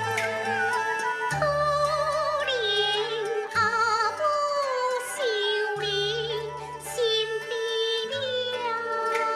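Taiwanese opera (gezaixi) music: a sung melody with wide vibrato over instrumental accompaniment with sustained low notes.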